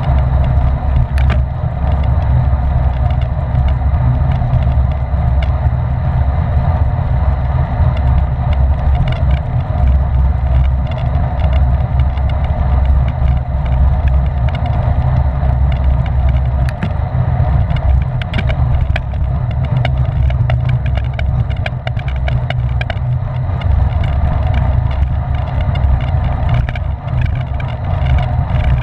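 Wind rushing over the microphone of a camera riding on a racing bicycle at speed: a steady low rumble, with scattered light clicks and rattles from the bike.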